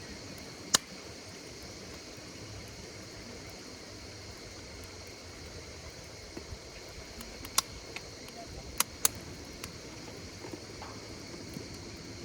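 Wood fire crackling, with a few sharp pops (the loudest just under a second in, then a cluster about two-thirds of the way through), over a steady, high-pitched insect chorus.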